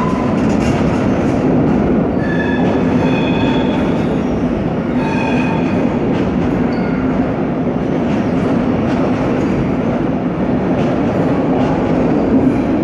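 A train running close by with a steady loud rumble and hum. Short high-pitched metal squeals come about two seconds in and again around five seconds in.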